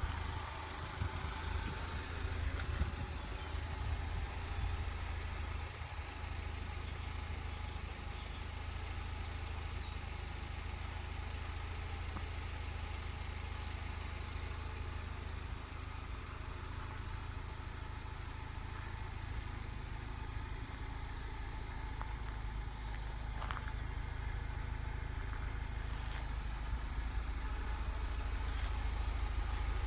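Mercedes-Benz 190E 2.0 (W201) four-cylinder petrol engine idling steadily, a low even hum that grows a little louder near the end.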